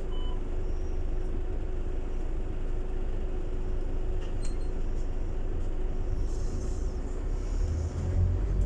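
Scania city bus running, a steady engine drone with a constant hum, growing heavier and louder near the end. A short beep sounds right at the start.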